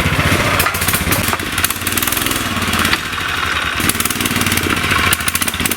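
Outboard boat motor running steadily under way, a fast even firing beat.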